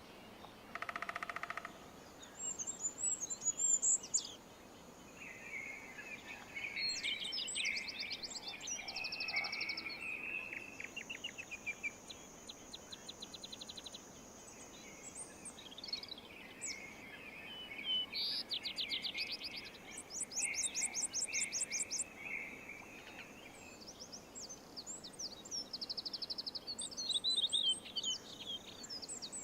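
Several songbirds singing and calling over one another: fast trills, repeated chirps, and a long thin high whistle held for a few seconds, over a faint outdoor hiss.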